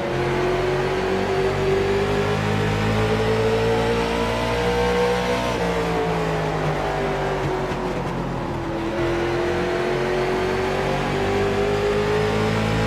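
Stock car racing engines under race power, their pitch climbing as the cars accelerate, falling for about three seconds midway as they lift off for a turn, then climbing again.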